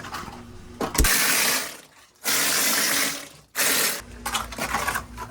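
Air-driven cement sprayer blasting mortar onto a stone basement wall in three hissing bursts, the first two about a second long and the last shorter, each starting abruptly.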